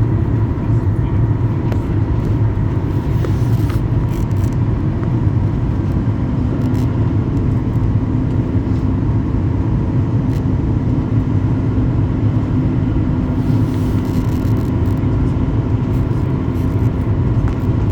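Aircraft cabin noise in flight: a steady, loud rumble of engines and airflow, with a faint steady whine, and a second low tone joining about six seconds in.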